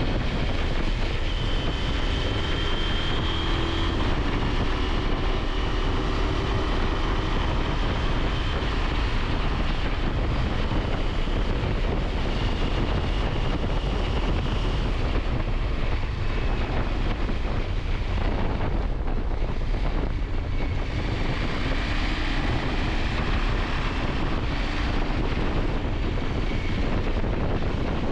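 Wind rushing over the microphone on a moving motorcycle, with the KTM 890 Adventure's parallel-twin engine running underneath, its note shifting a little in pitch.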